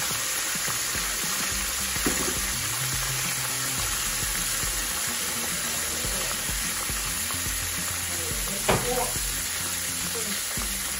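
Cornmeal-coated green tomato slices frying in shallow oil in a pan, a steady sizzle. A light knock comes about two seconds in and a sharper one near nine seconds.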